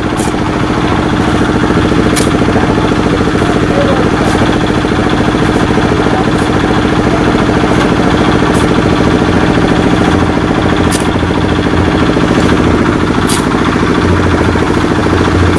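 An engine running steadily at a constant speed, loud and close, with short sharp clicks about every two seconds.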